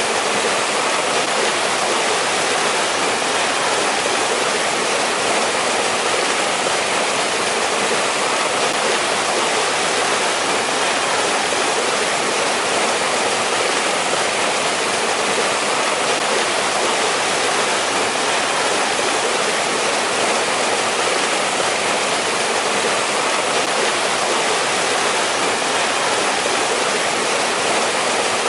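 A mountain valley stream flowing steadily over rocks: an even, unbroken rush of water.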